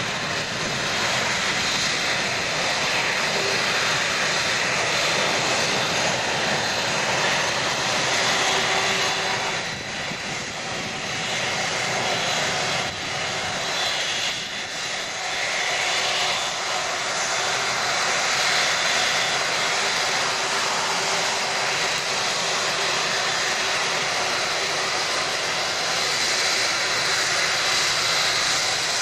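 Airbus A330 jet engines running steadily as the airliner taxis away after de-icing: a dense, even rush of engine noise with a faint steady whine, dipping briefly twice.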